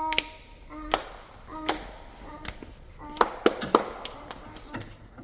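A series of sharp taps and knocks of hard objects striking one another, irregularly spaced, with a quick cluster of several about three seconds in.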